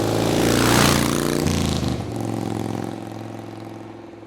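Motorcycle engine passing by. It grows louder to a peak about a second in, drops in pitch, then fades steadily as it moves away.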